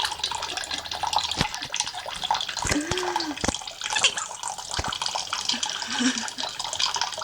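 Water running and splashing steadily as a quaker parrot bathes, with a few short dull bumps near the middle.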